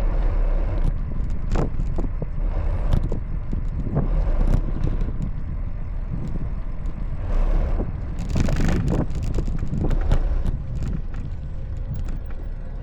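Street traffic heard from a moving bicycle, with a steady low rumble of wind and road noise and scattered clicks and rattles. A louder rush about eight seconds in, like a vehicle passing close.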